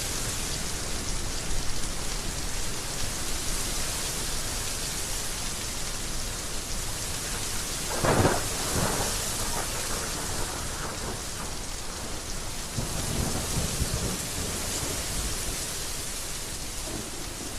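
Heavy rain falling steadily, with a crack of thunder about eight seconds in and a lower thunder rumble a few seconds later.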